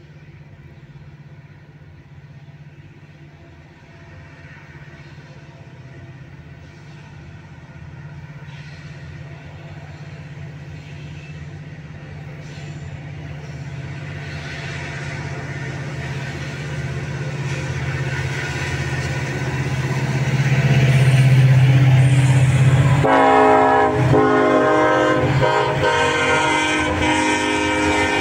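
CPKC freight train approaching, its diesel locomotive's engine hum growing steadily louder, then the locomotive sounds its horn near the end as it reaches and passes.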